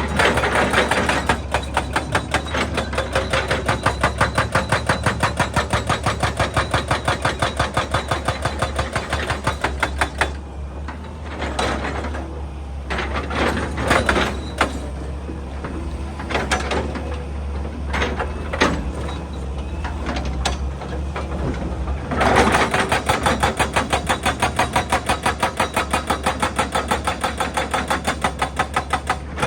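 Excavator's hydraulic breaker hammering rock in a fast, even rhythm of several blows a second over the low running of the engine. About ten seconds in the hammering stops and gives way to scattered knocks for some twelve seconds, then resumes.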